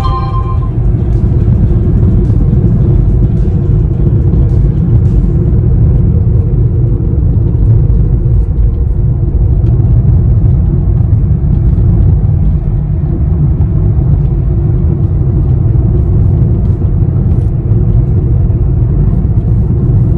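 Steady low rumble of a moving car, road and engine noise with no break or change.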